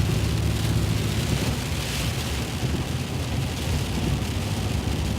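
Steady in-cabin road noise of a car driving on a wet, icy road: a low engine and tyre drone under an even hiss of wet pavement.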